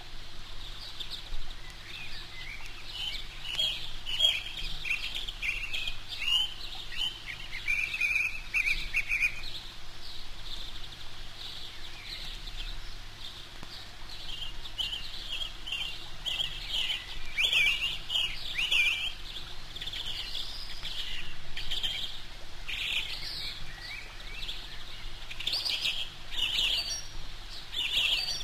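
Small birds chirping in quick runs of short high calls, with a lull of a few seconds around the middle of the stretch.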